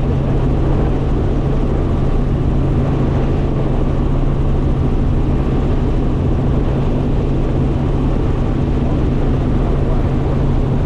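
Helicopter running steadily: a constant low engine-and-rotor hum over an even rushing noise, with no change in level.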